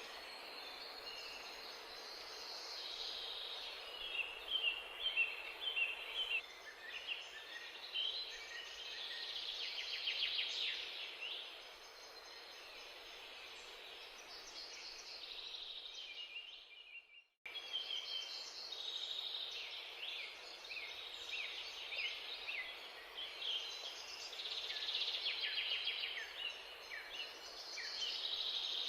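Birds chirping and chattering continuously over a steady background hiss, broken by a sudden cut about 17 seconds in, then going on as before.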